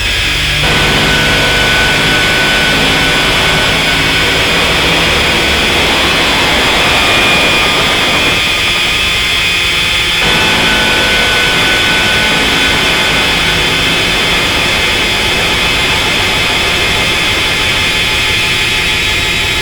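Harsh noise drone from DIY noise synthesizers run through distortion and delay pedals: a loud, dense, unbroken wall of noise with steady high whining tones and a rumbling low layer. The low and middle part of the noise thins out for about two seconds near the middle, then comes back.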